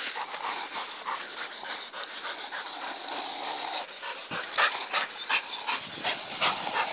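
Shepherd dogs panting hard while tugging at a killed wild boar, with scattered short scuffs and snaps that get busier in the second half.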